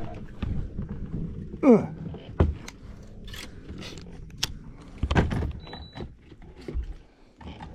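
Scattered knocks, thunks and clicks of fishing gear being handled in a small boat, with a brief falling squeal about two seconds in and a heavier knock about five seconds in.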